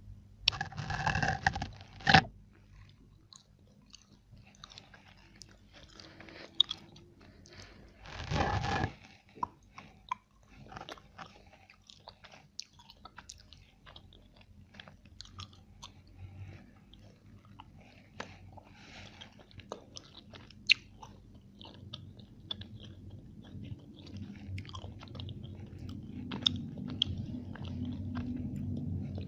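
Close-miked biting and chewing of chocolate: two loud bites, near the start and about eight seconds in, then chewing with many small, sharp mouth clicks.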